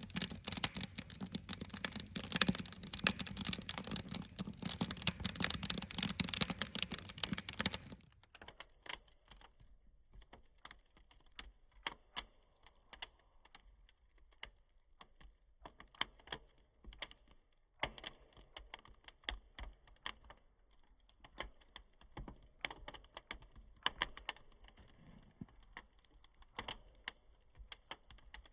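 Wood bonfire crackling and popping, dense and bright at first; about eight seconds in it turns duller, with sparser scattered pops.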